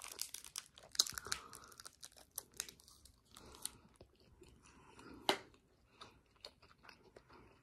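A person chewing a bite of pickled sausage close to the microphone: soft, irregular clicks of the mouth, one louder about five seconds in.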